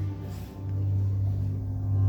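Cello playing long, held low notes, with a short break and a new note about half a second in.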